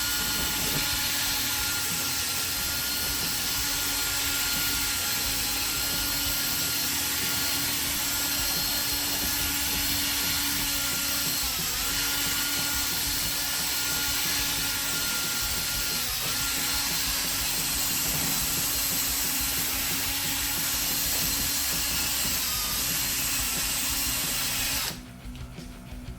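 Electric drill spinning a sanding disc from a 3M headlight restoration kit against a plastic headlight lens, a steady whine that sags briefly now and then under load. It stops suddenly near the end.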